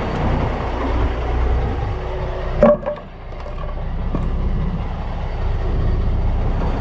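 Semi truck's diesel engine running steadily, with one short sharp bang about two and a half seconds in, after which the sound briefly drops before picking up again.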